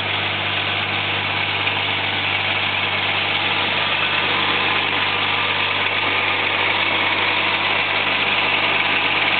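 An engine idling steadily, growing slightly louder.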